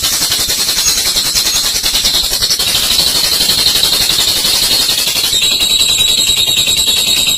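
Olive-mutation lovebird giving its long 'ngekek', a shrill, rapid rattling chatter that runs on without a break.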